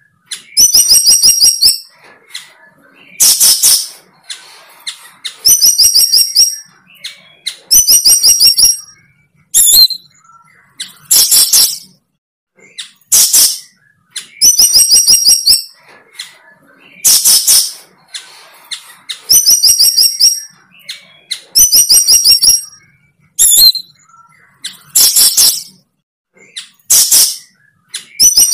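A bird call repeating about every two seconds: a harsh note followed by a rapid string of high chirps.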